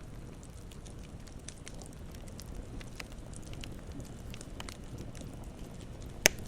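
Campfire burning with a steady low rumble and scattered crackles, and one sharp loud pop near the end.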